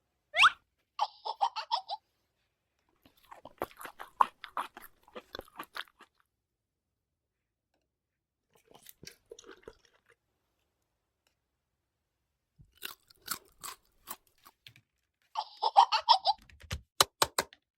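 Bouts of crunching and clicking, like small things being handled and broken, with short high-pitched giggle-like toy-voice chirps about a second in and again near the end, and a few sharp clicks just before the end.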